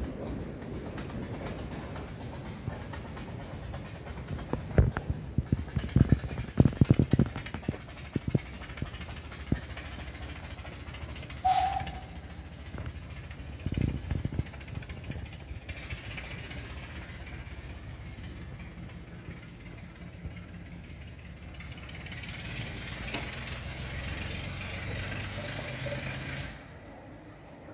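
Narrow-gauge train running: a low rumble with a run of clattering knocks from the wheels and couplings, and a brief high squeak. Later comes a steady hiss over the rumble that cuts off just before the end.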